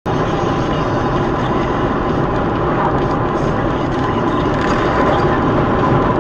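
Steady road and engine noise of a moving vehicle, holding at a constant level.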